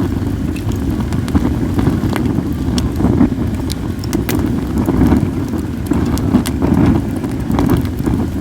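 Acacia and mixed firewood burning, crackling with frequent small sharp pops, over a steady low rumble of wind on the microphone.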